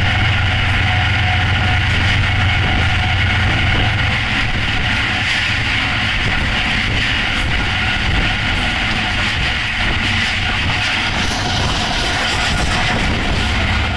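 Passenger train hauled by a GEU-40 diesel-electric locomotive running at high speed, heard from an open doorway just behind the locomotive: steady rumble and rattle of wheels on rail with rushing wind. A heavy low hum under it eases after about four seconds.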